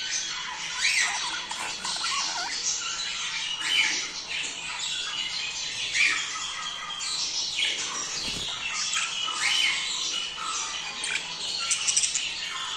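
Budgerigars chattering without pause, many short warbles, chirps and squawks overlapping.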